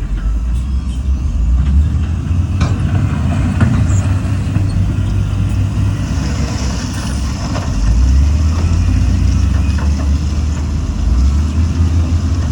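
Heavy diesel earthmoving machinery running with a deep, steady rumble, with scattered metallic clanks and a brief hiss about six seconds in.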